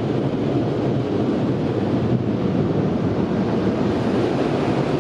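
Car wash tunnel air dryers blasting air over the car, heard from inside the cabin as a loud, steady rush.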